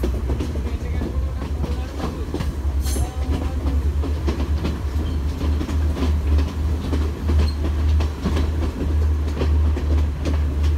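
Train carriage rumbling and clattering along the rails, heard from on board: a steady low rumble with irregular clicks of the wheels over the track, and a brief sharp high clank about three seconds in.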